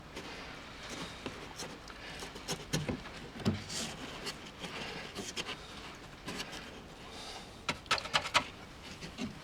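Scattered light taps, dabs and rustles of hands working glue-soaked toilet paper onto foam scenery, with a cluster of sharper taps about three and a half seconds in and again near eight seconds.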